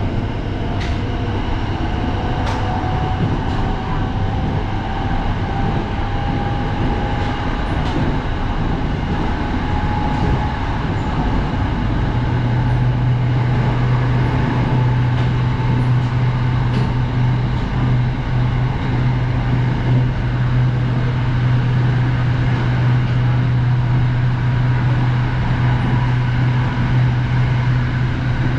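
SRT Red Line electric commuter train running. A motor whine rises slowly in pitch over the first ten seconds or so as the train picks up speed, then a steady low hum takes over from about twelve seconds in.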